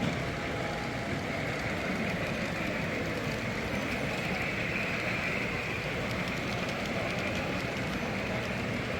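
Model train running on a layout's track, a steady motor and wheel hum.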